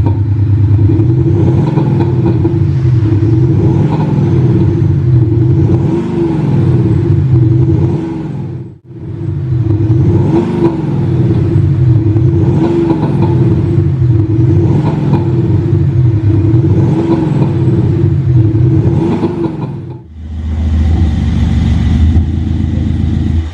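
Synthetic supercar-style engine sound from an active sound generator on a Mercedes-Benz C220d diesel, revved up and down over and over, about one rev every two seconds. It cuts out briefly about nine seconds in, and near the end changes to a deeper, steady drone.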